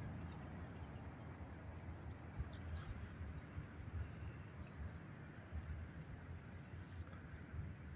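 Quiet outdoor ambience: a few short, high bird chirps, mostly in the middle of the stretch, over a low, steady rumble.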